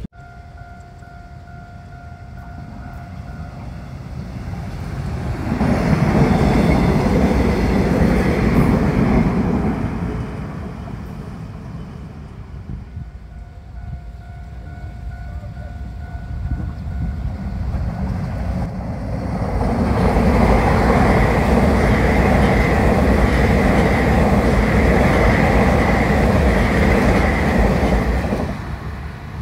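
Train running past on the tracks. The rail noise swells twice, about five seconds in and again from around twenty seconds in, then drops away near the end.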